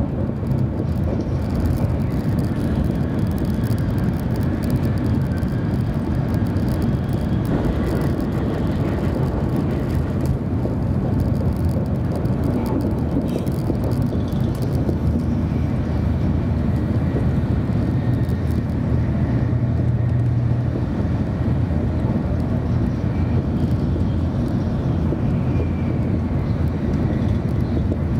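Steady cabin running noise of a 700 Series Shinkansen travelling on the line: an even low rumble from the running gear and rails, with a fainter hiss of air over it.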